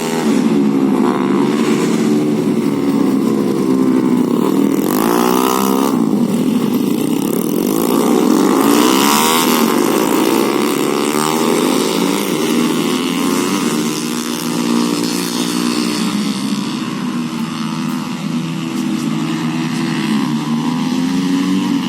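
Superstock-tuned Honda RS150 single-cylinder four-stroke motorcycle engine running hard, its note rising and falling again and again as it revs up and drops back.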